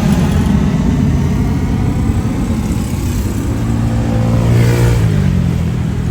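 Jet airliner engines, an Airbus A321 departing under takeoff power: a loud, steady rumble with a low hum that shifts in pitch about five seconds in.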